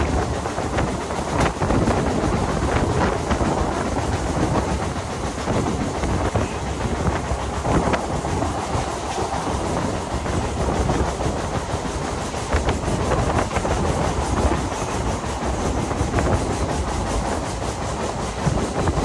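Mumbai suburban local train, an electric multiple unit, running at speed, heard from its open doorway: a steady rumble of wheels on rail with wheels clacking over rail joints now and then.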